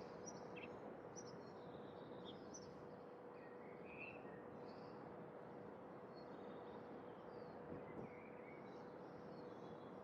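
Faint outdoor ambience: scattered short bird chirps over a steady hiss, with a faint steady hum underneath.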